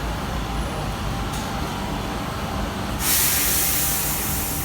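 Commuter train running with a steady low rumble, then a loud hiss of compressed air starts about three seconds in, as from the train's air brakes or door pneumatics.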